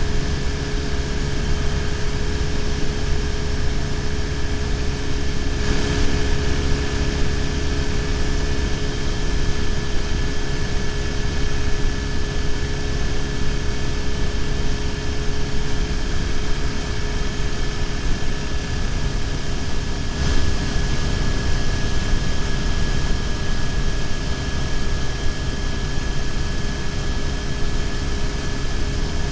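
BMW R1150GS boxer-twin engine running at a steady cruise, with wind and road rush on the bike-mounted camera's microphone and a few steady whining tones. Two brief bumps come through, about six and about twenty seconds in.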